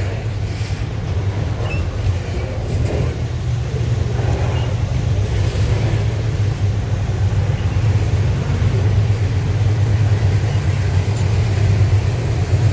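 Loaded grain freight train passing, a steady low rumble that grows slightly louder over the last few seconds.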